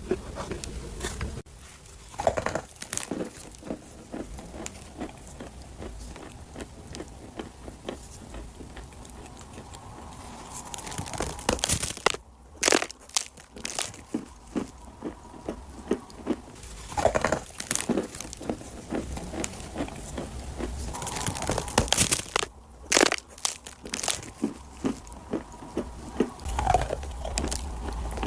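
Dry clay being bitten and chewed close to the microphone: a running series of sharp crunches and crackles, with louder flurries about halfway through and again near the end.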